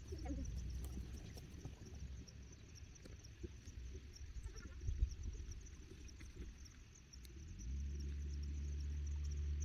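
Hillside pasture ambience: a steady high insect drone over a low rumble, with a single knock about five seconds in. Near the end a steady low hum comes in and grows louder.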